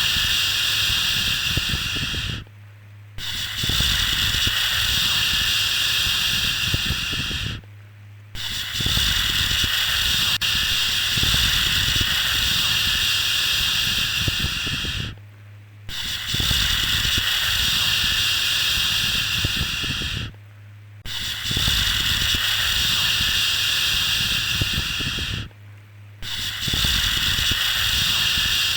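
A drawn-out 'shhh' shushing sound for soothing a baby to sleep, repeated over and over. Each shush lasts about four to seven seconds, with a short break of under a second between them, over a faint steady low hum.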